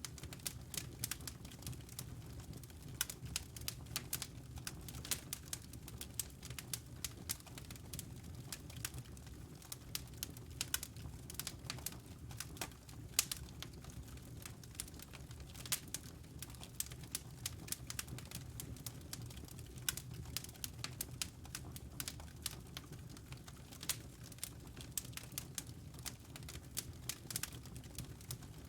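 Wood fire in a fireplace crackling, with frequent small, irregular pops and snaps over a low, steady rumble of the burning logs.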